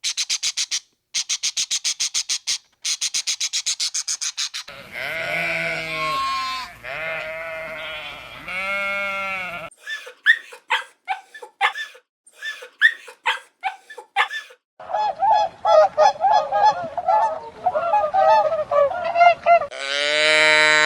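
A sequence of different animal calls cut together: first several rapid trains of pulses, then a series of drawn-out pitched honking calls, then short sharp chirps, then a dense burst of overlapping calls, ending with one long pitched call.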